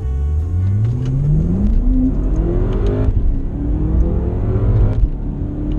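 BMW F10 M5's twin-turbo V8, breathing through a full Akrapovic exhaust, accelerating hard. The engine note climbs steadily, drops at an upshift about three seconds in, then climbs again to a second upshift about five seconds in.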